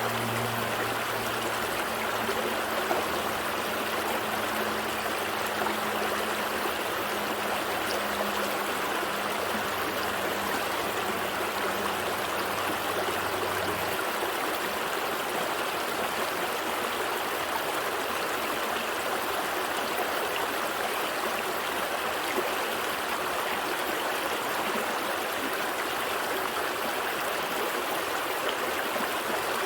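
Gentle stream flowing steadily, a continuous trickling rush of water. A faint low hum sits underneath for the first half and fades out about halfway.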